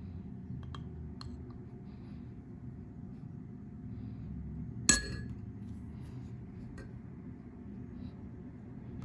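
One sharp clink of glass or crockery struck in the kitchen, with a brief ring about five seconds in, plus a few faint small clicks. Under them runs a steady low hum.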